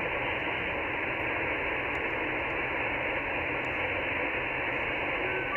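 Shortwave transceiver receiving the 40 m band: steady band noise and static hiss, cut off above about 3 kHz by the receiver's passband, with a low hum underneath. Faint steady FT8 data tones begin just at the end.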